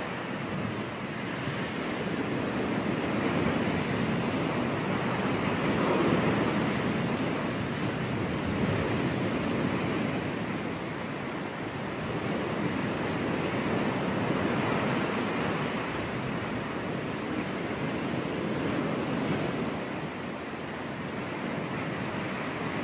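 Ocean surf breaking and washing on a beach, a steady rushing that swells and eases every few seconds as waves come in.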